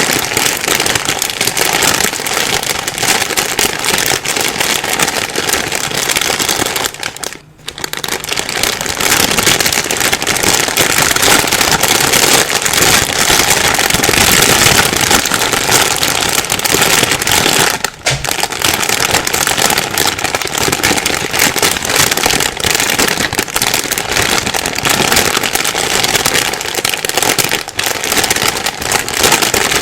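Plastic bag being rustled and crumpled continuously, a dense loud crackle with a brief pause about seven seconds in.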